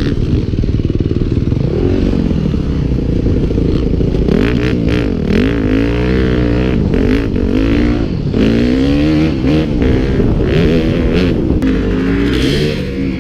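Motocross bike engine revving up and falling back again and again, its pitch swinging roughly once a second, with short bursts of noise over it.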